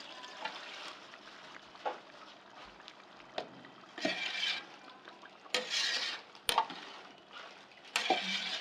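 Spoon stirring food in a cooking pot: a few separate knocks and short scrapes against the pot, a second or two apart, over a faint frying sound.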